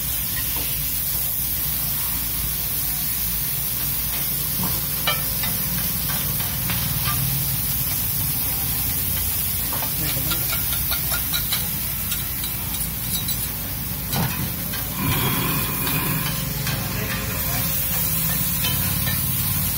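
Egg korma masala sizzling on a large flat metal griddle while a slotted metal spatula stirs and scrapes it, with now and then a sharp scrape or click of the spatula on the pan, over a steady hiss and low rumble.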